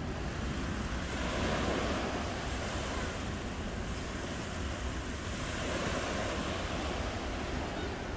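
Ocean waves washing onto the shore, a steady surf noise that swells twice, about a second in and again past the middle.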